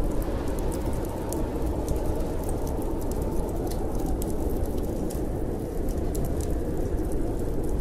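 Steady low rush of storm wind with a wood fire crackling over it: scattered sharp little pops and snaps throughout.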